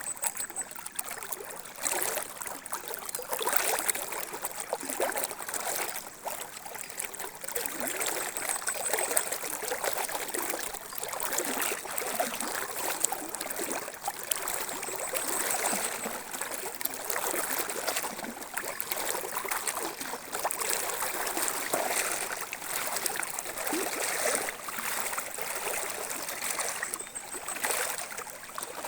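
River water running and splashing, an irregular rushing sound.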